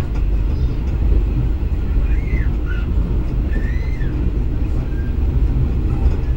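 Passenger train running at speed, heard from inside the carriage: a steady low rumble of wheels on the rails. A couple of faint high rising-and-falling tones sound briefly in the middle.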